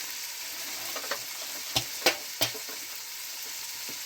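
Food frying in a pan, a steady sizzle, with four sharp knocks of a utensil against the pan over about a second and a half partway through.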